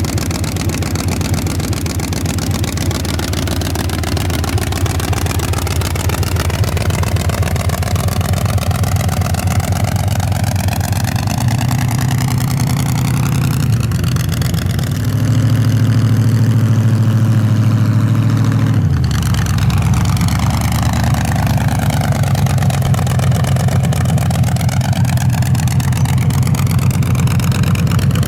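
Race truck's engine idling loudly. It climbs to higher revs about halfway through, holds there for around four seconds, then drops back abruptly to a loud idle.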